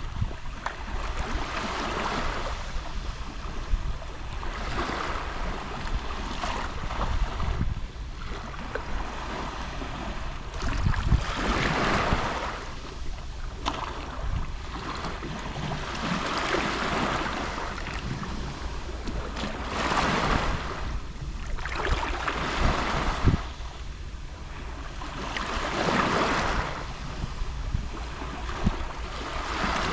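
Gentle sea waves lapping on the shore. Each wash swells and fades every few seconds, over a steady low rumble.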